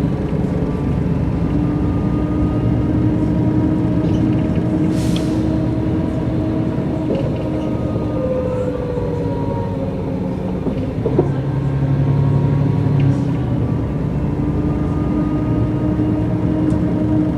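Mercedes-Benz O405 N² city bus with a Voith automatic gearbox, on the move: a steady engine and drivetrain drone with several whining tones over it. A short hiss comes about five seconds in, and the engine note grows stronger from about eleven to thirteen seconds.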